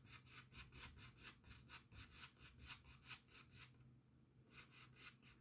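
Faint, rhythmic scrubbing of a paintbrush loaded with oil paint against the canvas, about five strokes a second, with a short pause about two-thirds of the way through.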